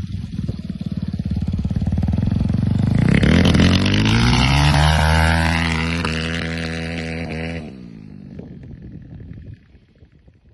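160cc dirt bike engine running at low revs, then revving up about three seconds in and holding a higher, louder pitch before dropping off sharply. A fainter engine sound follows briefly, then it goes quiet near the end.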